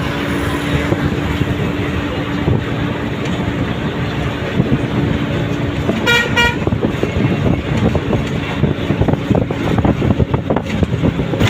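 Steady engine and road rumble of a moving bus, with two short vehicle-horn toots in quick succession about six seconds in.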